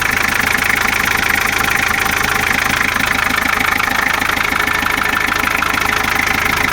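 Ford Sierra 2.3D's four-cylinder diesel engine idling steadily with an even, rapid diesel clatter. It runs without unusual noises apart from a sagging, loose drive belt that the owner says rustles.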